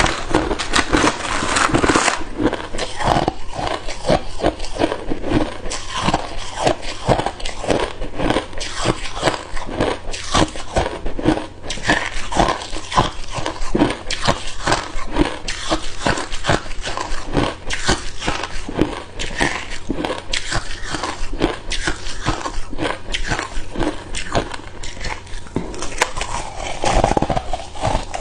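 Hard cube ice being bitten and chewed close to the microphone: rapid, loud, sharp crunching and cracking that goes on without a break.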